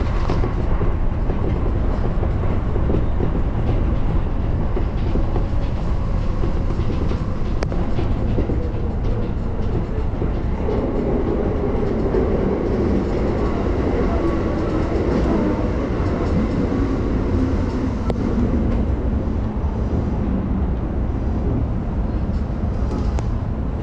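JR Yokohama Line commuter train running, heard from inside the car: a steady rumble of wheels on rails and traction noise, with a few brief clicks from the track. The train is coming into a station.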